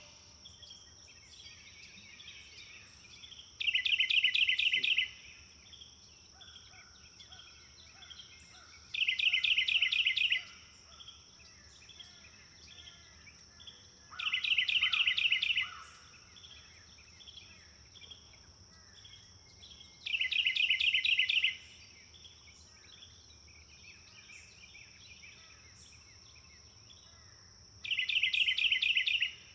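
A songbird repeating a loud, fast trilled phrase about every five to six seconds, five times, with other birds chirping softly in between. A steady high-pitched drone runs underneath.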